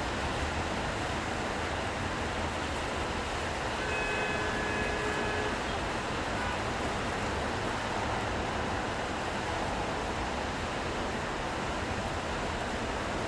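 Steady wet-street city ambience: an even hiss of rain and traffic on a wet road, with a faint tone lasting about a second and a half, about four seconds in.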